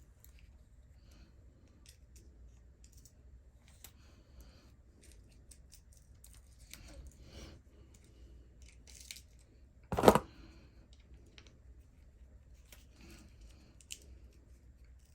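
Small clicks and scrapes of hand tools and small plastic and metal RC parts being handled during a differential teardown, with one loud, short knock about ten seconds in, like a tool or part set down hard on the bench.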